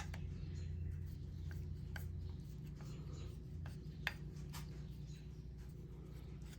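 Small scraping and clicking of a screwdriver slowly turning a tight, stuck part out of a Mikuni carburetor body, with a few sharp clicks, over a steady low hum.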